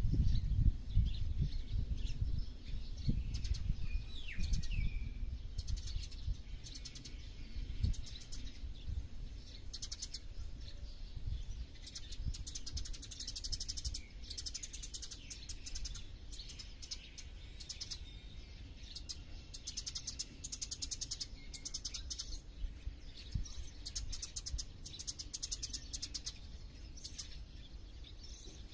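Several small birds chirping and singing rapid high trills that come thicker in the second half. A low rumble sits underneath, loudest at the start and fading.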